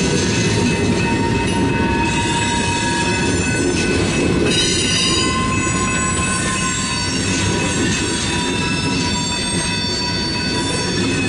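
Freight train of tank cars and covered hoppers rolling slowly past, with a steady rumble of wheels on rail and high wheel squeal ringing at several pitches, briefly sharper about halfway through.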